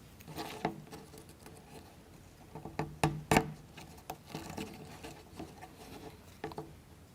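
Small laser-cut plywood pieces of a wooden model kit being handled and fitted together by hand: scattered light clicks, taps and rustles, with a few sharper clicks around three seconds in.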